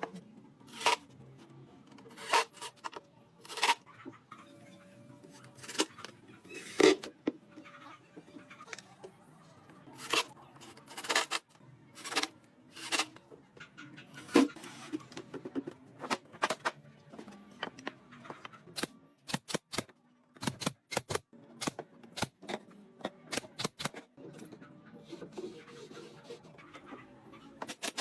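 Irregular sharp knocks and taps from woodworking, about one or two a second, with a quicker run of clicks a little past the middle.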